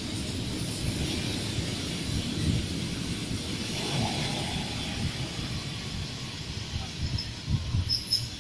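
Electric commuter train pulling away on the rails: a steady low rumble of wheels with a hiss above it, slowly fading as the last car passes and the train draws off, with a few sharper clicks near the end.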